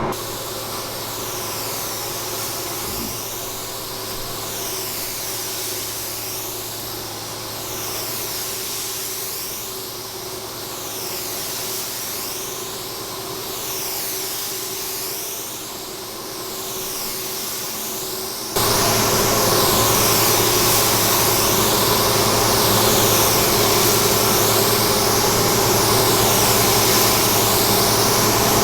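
Automotive paint spray gun hissing steadily as the second base coat is sprayed, the hiss sweeping up and down in pitch with each pass of the gun, over a steady low hum. About two-thirds of the way through the hiss abruptly gets louder.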